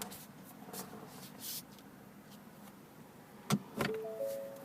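Two clicks from the controls of a 2015 Ford Fusion's cabin, followed by the car's short electronic chime of a few stepped tones.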